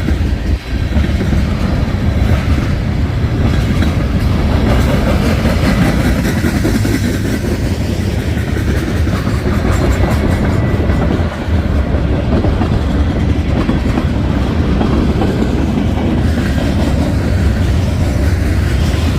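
A train rolling by with a steady, loud rumble of wheels on rail.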